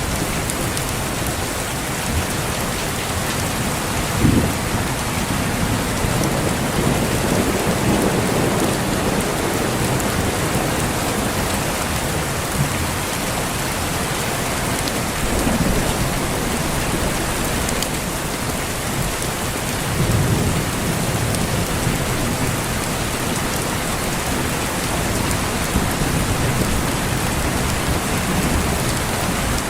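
Steady heavy rain with thunder rumbling low several times. The strongest rumbles come about four and twenty seconds in.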